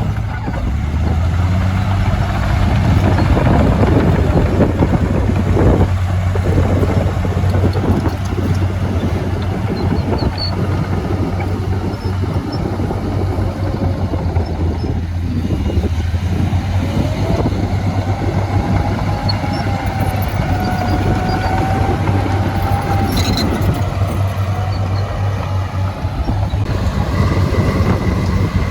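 Heavy diesel engine of earthmoving machinery running steadily under work, with mechanical clatter; a wavering whine rises and falls for several seconds past the middle.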